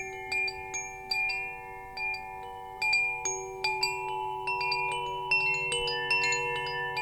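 Metal wind chimes ringing, struck at irregular moments, several tubes sounding one after another and overlapping. Each strike leaves a long ringing tone.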